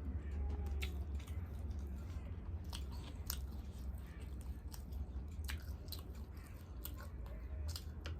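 A person chewing and biting food, with irregular sharp wet mouth clicks over a steady low hum.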